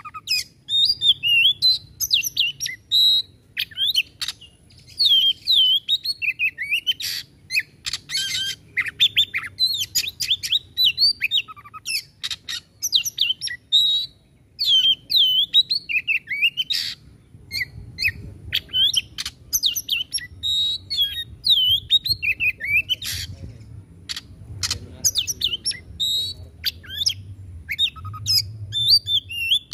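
Oriental magpie-robin singing without pause: rapid, varied whistled phrases that bend up and down, mixed with many sharp, harsh clicking notes.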